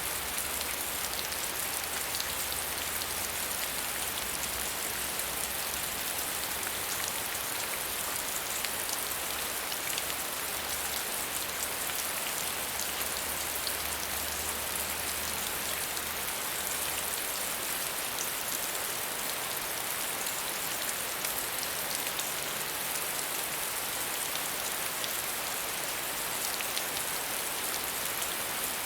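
Steady medium rainfall: an even hiss of rain with fine drop patter on a surface, unchanging throughout.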